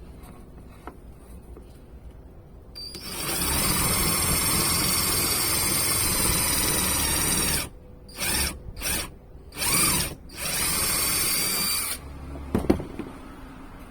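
Power drill running steadily for about five seconds, then in four short bursts of the trigger, as when driving screws into wood. A single sharp knock follows near the end.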